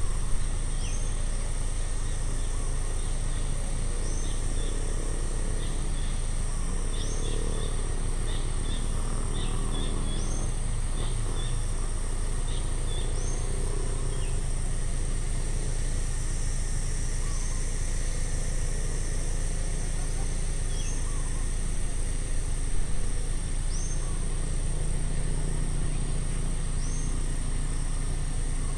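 Outdoor ambience: a steady low rumble and a constant high insect hiss, with a bird repeating a short, high call every two or three seconds and a run of quick chirps in the middle.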